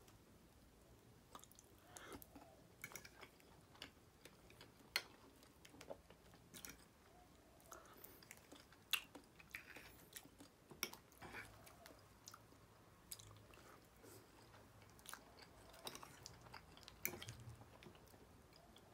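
Faint, close-miked chewing and wet mouth sounds of eating soft pancakes, broken by scattered short clicks and smacks.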